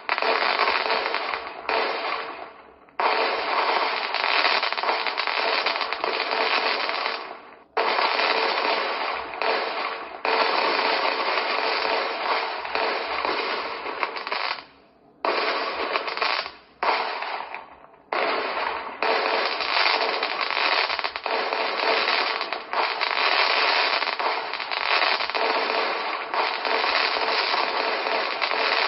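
Aerial fireworks display: a dense, continuous rattle of bursts and crackling with little bass, broken by a few brief sudden lulls.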